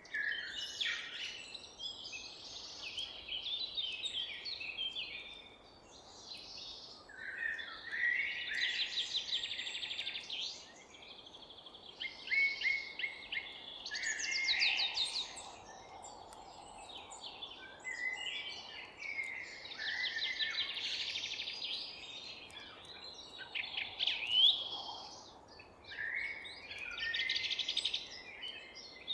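Several songbirds singing at once in a dawn-chorus mix of rapid trills, chirps and warbled phrases, over a faint steady background hiss.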